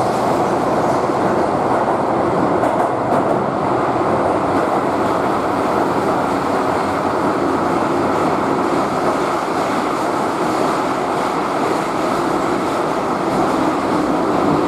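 Steady running noise of a Keihan electric train heard from inside the passenger car: wheels rumbling on the rails at speed, even throughout.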